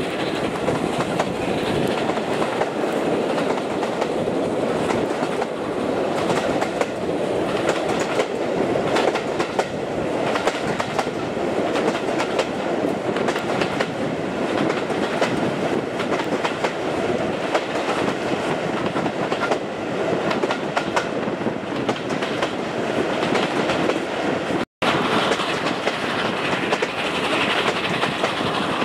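Passenger train coaches running along the line, wheels clicking steadily over the rail joints. About 25 seconds in the sound cuts out for an instant and then carries on.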